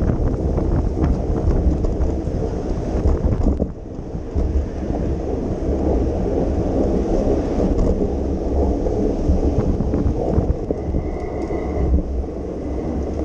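Wind buffeting the microphone of a moving bicycle, a loud steady low rumble mixed with street and traffic noise, dipping briefly about four seconds in.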